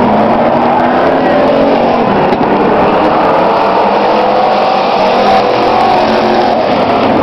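Engines of several demo trucks racing on a speedway track at once: a loud, steady mix of overlapping engine notes, each drifting up and down in pitch.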